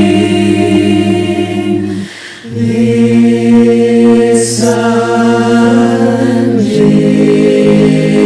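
Choir singing a cappella in long held chords, with a short break for breath about two seconds in before the next chord, another chord change near the end, and an 's' sound in the middle.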